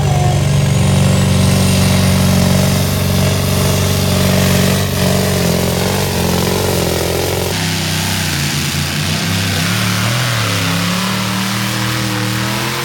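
Modified pulling tractor's engine running loud at high revs. About seven and a half seconds in the sound changes abruptly, and after that the pitch wavers up and down.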